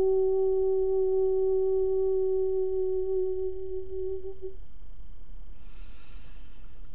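A woman's voice toning one long, steady hummed note, which fades away about four seconds in. A soft hiss follows near the end.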